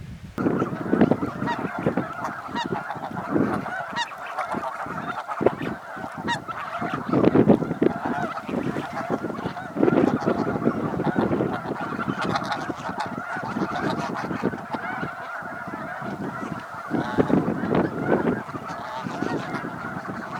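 A large flock of big wetland birds calling all at once, a dense chorus of overlapping calls that starts abruptly about half a second in and carries on without a break.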